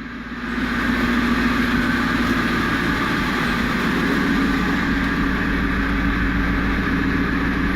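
Ford Mustang GT's 4.6-litre V8, rebuilt on a truck block, running steadily at warm-up idle. It grows louder during the first second, then holds an even hum.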